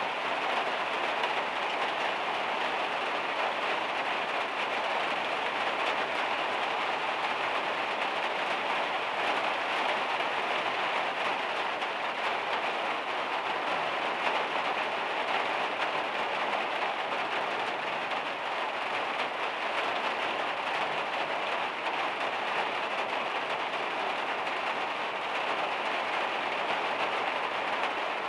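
Heavy rain drumming steadily on the van's metal roof, heard from inside.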